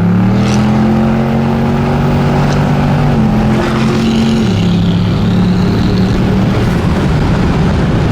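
Turbocharged 5.3-litre V8 of a Chevrolet Silverado pickup accelerating, heard from inside the cab: the engine note climbs, then drops in two steps at upshifts about three and four and a half seconds in, and fades into wind and road noise near the end.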